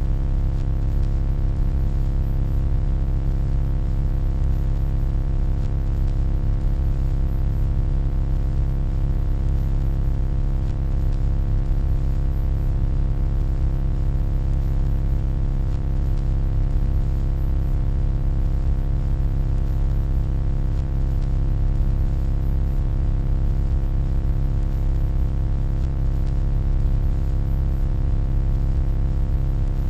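Continuous low electronic hum: a deep, steady drone made of many layered unchanging tones, with no variation in level.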